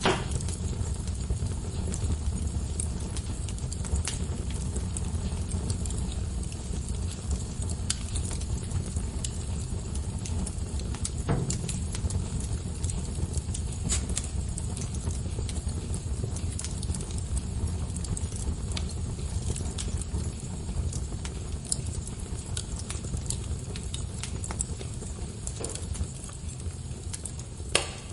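Wood fire crackling and popping in a fireplace: irregular sharp snaps over a steady low rumble of the flames, with a few louder pops about 11, 14 and 28 seconds in.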